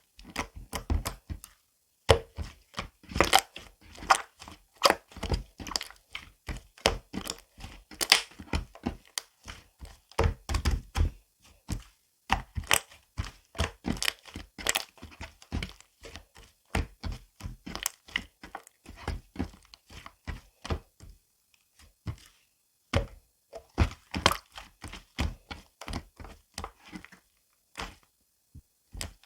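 Close, rapid series of irregular sharp taps, knocks and crackles, with crinkling, as of small objects or material being handled; it thins out briefly twice near the end.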